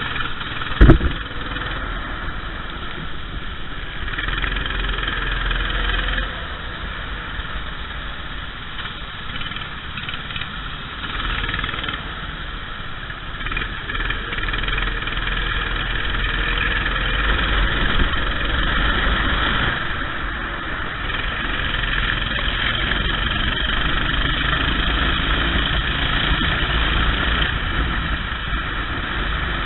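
Racing kart engine running, its level and pitch rising and falling with the throttle, with one sharp knock about a second in.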